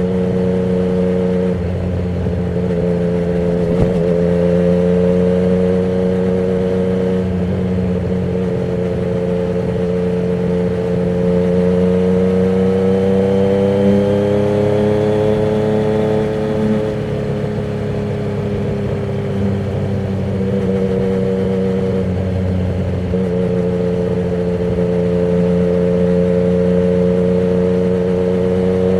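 Yamaha MT-09's inline three-cylinder engine through a Termignoni exhaust with the dB killer removed, under way at a fairly steady cruise. The engine pitch climbs slowly from about ten seconds in, drops back around seventeen seconds, then holds level with small swells.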